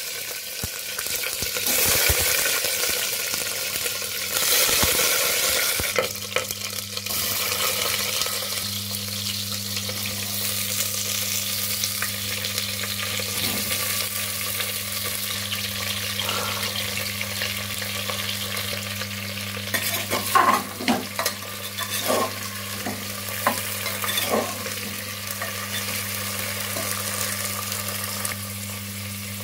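Cut vegetables frying in hot oil in a pressure cooker: a steady sizzle, louder in the first few seconds as pieces go into the oil. Over the steady sizzle comes a low hum, and about two-thirds through, a run of sharp clinks as the vegetables are stirred against the metal pot.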